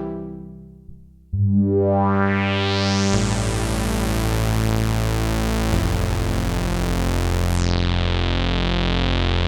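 Behringer JT-4000M Micro synthesizer playing a factory preset: one held sound fades out and darkens, then about a second and a half in a new sustained chord starts and grows steadily brighter. The chord changes twice, about three and six seconds in, and near the end its upper treble drops away.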